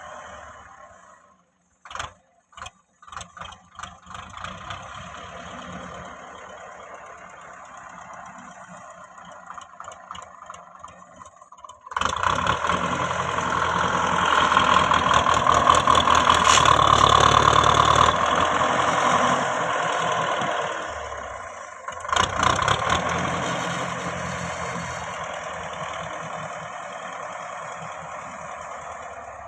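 Belarus 510 tractor's diesel engine running while working the front blade, with a few knocks early on. About twelve seconds in it gets suddenly much louder, eases back after about twenty seconds, then dips briefly and runs steadily again.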